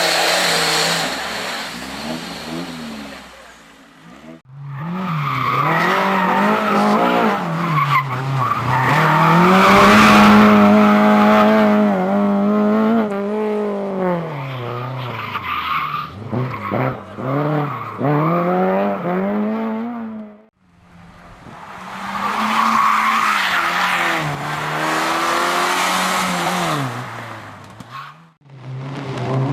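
Competition car engines revving hard, the pitch climbing and dropping again and again as the cars accelerate and shift gears, in several short clips cut together, with tyre noise.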